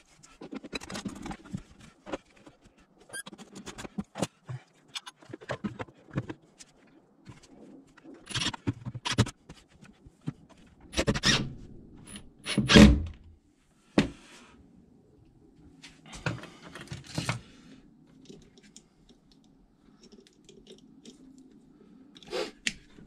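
Tools and parts being handled by hand: a run of clicks, knocks and scrapes, with one heavy thud about halfway through.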